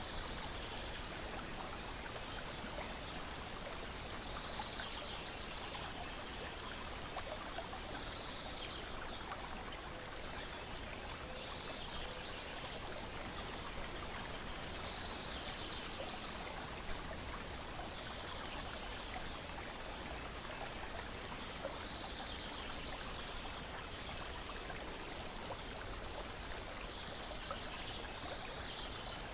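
Steady ambience of lake water lapping and trickling, with short bursts of high bird chirping that return every three to four seconds.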